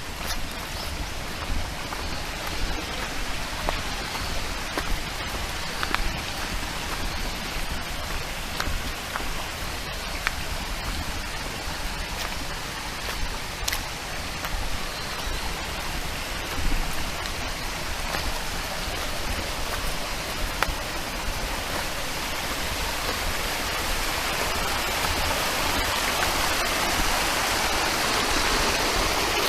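A small stream running, a steady rush that grows louder near the end, with a few light clicks and knocks over it.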